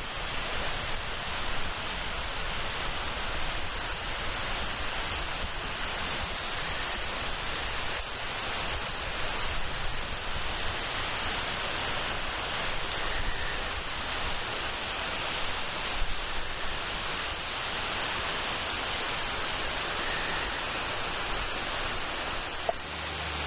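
Strong wind rushing steadily through the woods, with low gusty buffeting on the microphone. It cuts off abruptly near the end.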